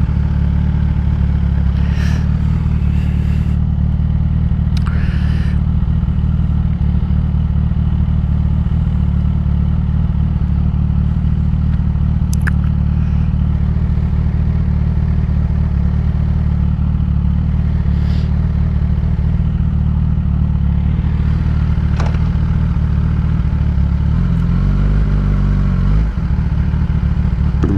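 Kawasaki ZX-10R's inline-four engine idling steadily through a Graves race exhaust, with a brief swell of low rumble near the end.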